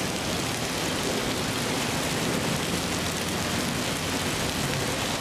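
Steady rain mixed with small hail falling on a car, an even hiss of drops with no single hits standing out.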